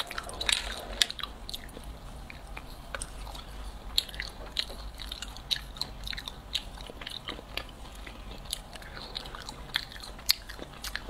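Close-miked chewing of a soft, sticky mango jelly candy: wet mouth clicks and smacks at irregular intervals.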